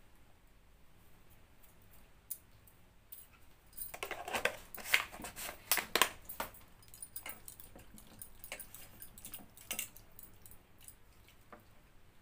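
Eating at a plate: scattered small clicks, with a cluster of louder clinks and clatter about four to six and a half seconds in.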